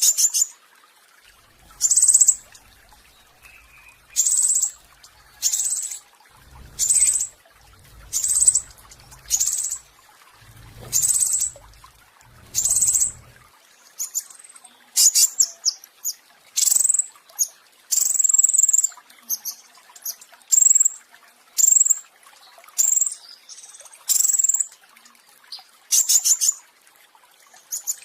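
Petis raja songbird singing its 'roll tembak' song: short, high, rapid rattling trills repeated about once a second or two, coming faster in the second half.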